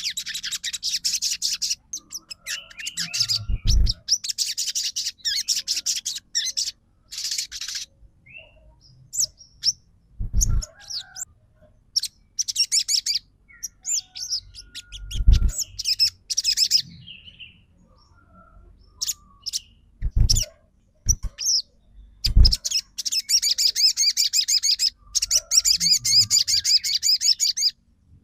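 Crimson sunbird (sogon) singing in long runs of very fast, high trills (the 'trotol' style), broken by shorter chirping phrases. Several dull thumps sound in between.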